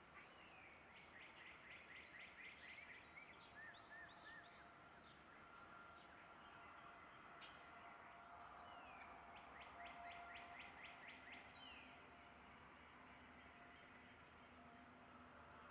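Faint background birdsong: several birds calling, with two rapid trilled series of repeated notes and scattered short chirps and whistles, over a faint steady hum.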